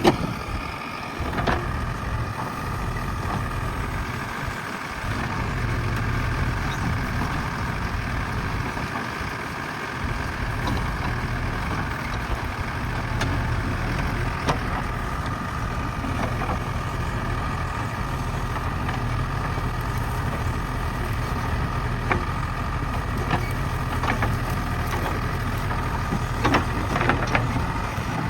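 Diesel engine of a JCB backhoe loader running steadily while the machine works, with a few short knocks, several of them near the end.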